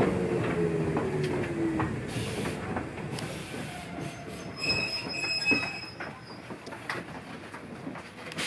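Ichibata Electric Railway train heard from inside the car as it runs and slows, getting quieter: a falling whine in the first two seconds, a brief high wheel squeal in the middle, and scattered clicks of wheels over rail joints.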